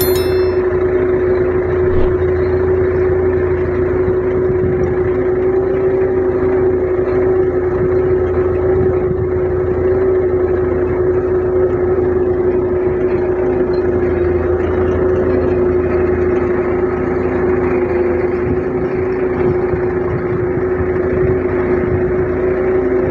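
Belarus 510 tractor's diesel engine running at a steady, unchanging speed.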